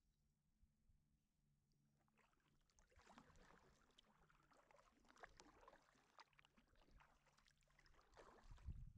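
Faint, irregular splashing and dripping of a kayak paddle working the water, starting about two seconds in. A low wind rumble on the microphone rises near the end.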